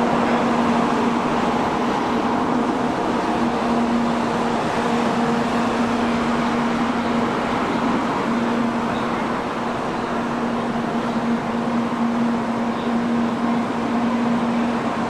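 N700A Shinkansen train at the platform giving off a steady hum and whir of onboard equipment. A steady low tone runs under it and drops out briefly twice.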